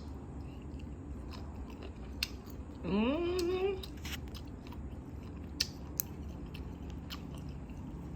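A person chewing food with mouth clicks and smacks, close to the microphone. About three seconds in, a short rising hummed "mmm" of enjoyment.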